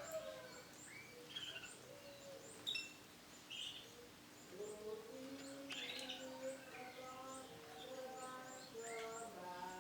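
Female brown canary giving short, high chirping calls again and again, with lower held notes that step up and down in pitch underneath.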